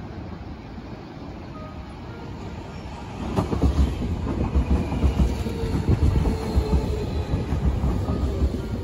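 Hankyu local commuter train pulling into the station alongside the platform. A distant rumble jumps sharply louder about three seconds in as the cars reach the platform, then goes on with a heavy rumble, wheels clacking over rail joints, and a faint high whine.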